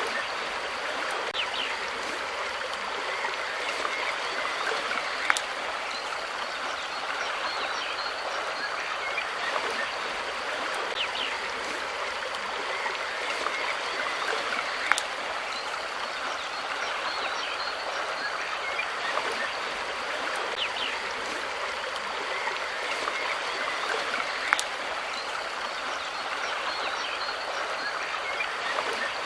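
Steady rush of running water, like a small stream, with faint short chirps and three sharp clicks about ten seconds apart.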